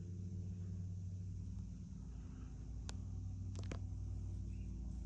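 Hampton Bay Hayward ceiling fan running, its motor giving a steady low hum, with a few faint clicks about three seconds in.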